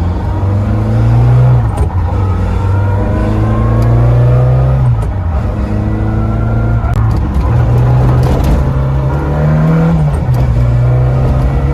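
Citroën AX GT rally car's four-cylinder petrol engine accelerating hard through the gears, its pitch climbing and then dropping back at each of several gear changes.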